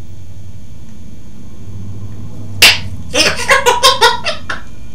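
African grey parrot giving one sharp, loud click about halfway through, then a quick run of about eight short pitched syllables, roughly five a second, like a mimicked laugh.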